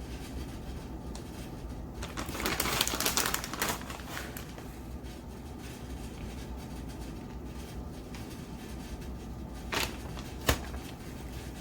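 Crinkly rustling of a plastic bag of shredded cheese being handled for about two seconds, then two sharp clicks near the end.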